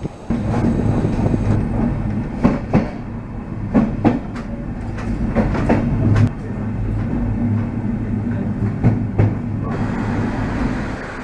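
A diesel-hauled passenger train running on the rails, its wheels clicking over rail joints and points in pairs about a third of a second apart, over a steady low drone. A hiss comes in near the end.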